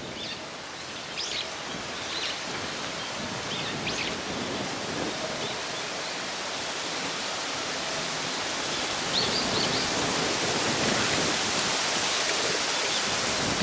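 Strong gusty wind rushing through trees, a steady roar that slowly grows louder, with small birds chirping now and then.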